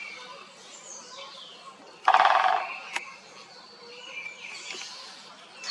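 Park birdsong, with thin chirps and trills over outdoor background noise. One much louder, short call about two seconds in, then a sharp click.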